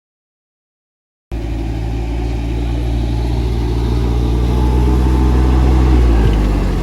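Silence for about a second, then a cut to an engine running loudly and steadily close by, its pitch shifting near the end.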